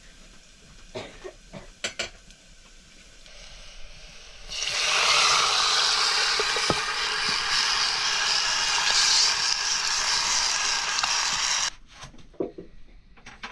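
A few light utensil knocks, then a loud sizzle of food frying in hot oil in a pan. The sizzle starts suddenly about four and a half seconds in and cuts off sharply near the end.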